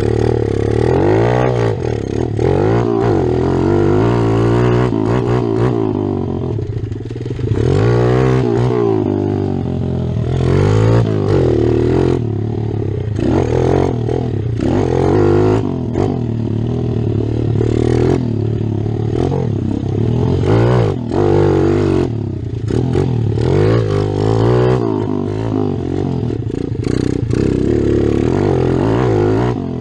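Kawasaki KLX dirt bike's single-cylinder four-stroke engine being ridden, revving up and easing off again and again, its pitch rising and falling every second or two.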